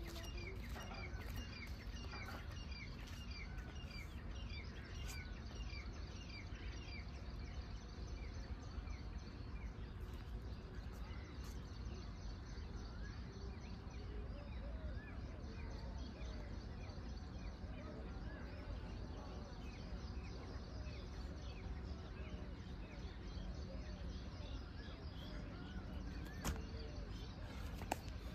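Small birds chirping over and over, about two short chirps a second for the first several seconds and sparser after, over a steady low background noise.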